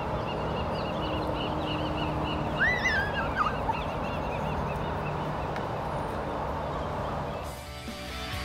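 Outdoor ambience with a steady noise haze and birds chirping: a string of short repeated chirps, with a louder gliding call about three seconds in. Music comes in near the end.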